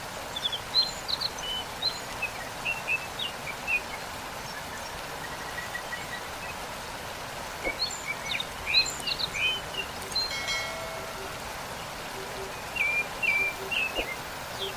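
Steady rush of a waterfall, with songbirds chirping over it in three bouts of quick, high chirps: near the start, a little after the middle, and near the end.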